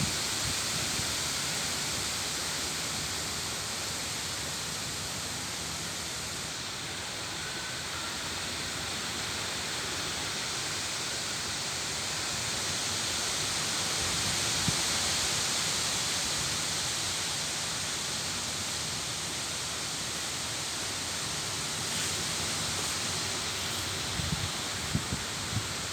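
Leaves of a peepal (sacred fig) tree rustling and clattering against each other in the wind: a steady hiss that swells around the middle and eases again, with a few low thumps near the end.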